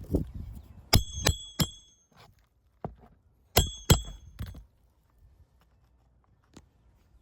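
Roofing nails being driven: sharp metallic strikes, each with a short ring, three in quick succession about a second in and two more a couple of seconds later.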